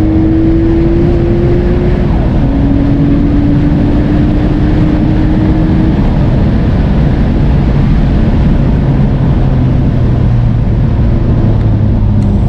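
Big-turbo Nissan Skyline R34 GT-T's turbocharged RB25DET straight-six accelerating hard: revs rise, drop at a gear change about two seconds in, and climb again. Around six seconds in the engine settles to a lower, steadier note, over heavy wind and road noise.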